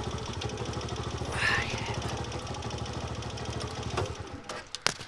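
WK 125RR's 125 cc single-cylinder four-stroke engine idling on its stock exhaust with a steady, even pulse, then dying away about four seconds in as it is switched off. A few sharp clicks follow near the end.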